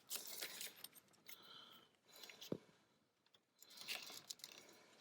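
Faint clicks, scrapes and rustles of hands working a fuel injector and its retaining clip into the fuel rail, with one sharper click about two and a half seconds in.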